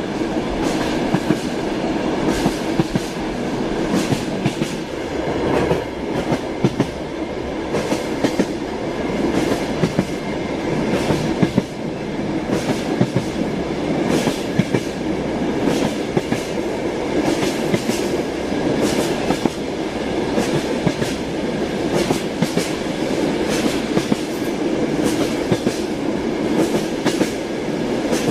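Train running along the track, its wheels clattering over the rails: irregular clicks and knocks over a steady rumble.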